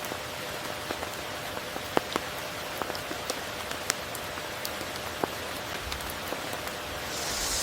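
Steady rain falling, with individual drops ticking sharply on surfaces throughout and a brief swell of louder hiss near the end.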